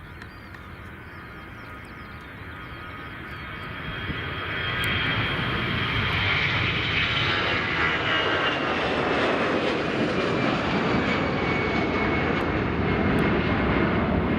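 Airbus A320 jet airliner's engines passing close by, growing louder over the first five seconds and then a steady loud rumble. A high fan whine slowly falls in pitch as it goes.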